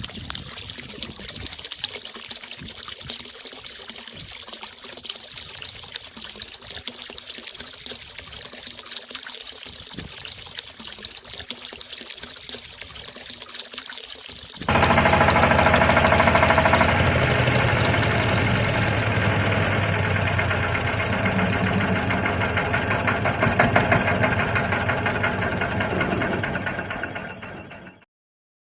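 Small motor of a miniature model running with a fast rattle, jumping suddenly louder and steadier about halfway through, then fading and stopping near the end.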